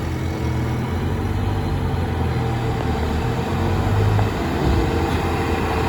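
Diesel engine of a JCB 3DX backhoe loader running steadily, a little louder about four seconds in.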